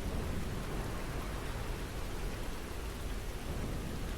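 Steady rain falling, an even hiss of rain with no single drops standing out.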